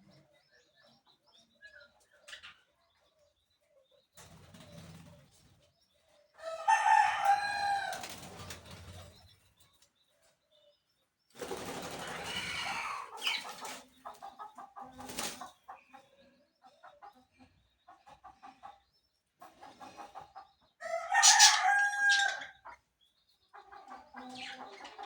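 Rooster crowing twice, about six seconds in and again about twenty-one seconds in, with shorter clucks and bird calls between.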